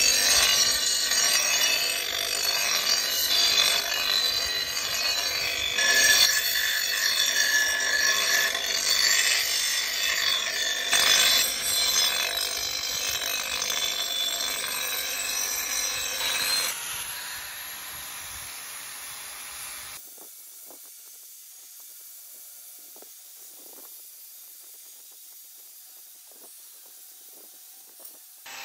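A power tool working steel, loud and noisy with a ringing edge, for about the first two thirds; it then dies away, leaving only faint background sounds.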